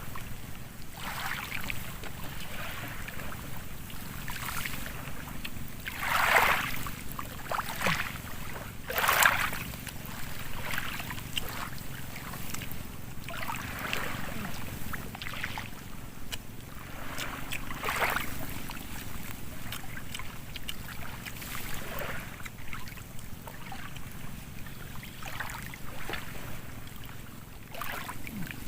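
Small waves lapping and splashing in irregular surges, the loudest about six and nine seconds in, over a low steady rumble of wind.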